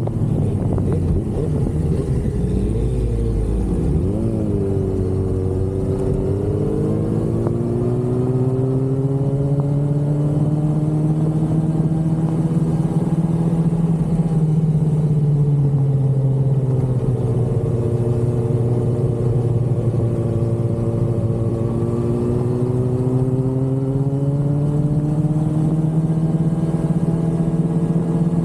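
Inline-four sport bike engine under way at a fairly steady cruise. Its pitch rises and falls slowly, with a quick drop and climb about four seconds in, over a low rumble of wind and road.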